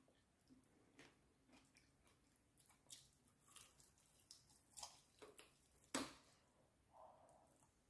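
Faint, close-up bites and chewing on breaded fried chicken: scattered soft crunches and mouth clicks, the loudest crunch about six seconds in.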